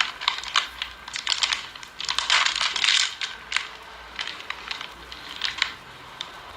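Irregular sharp, light clicks and taps, with a denser crinkling stretch about two to three seconds in.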